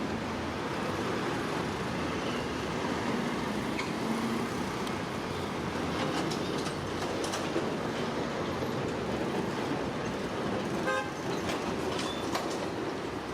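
Heavy diesel earthmoving machinery running steadily, with scattered knocks and clanks.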